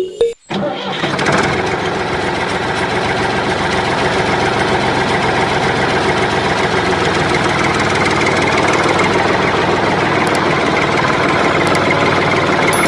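A small motor starts about half a second in and runs steadily, a dense mechanical whir with a faint hum of several steady tones. A snatch of background music cuts off just before it.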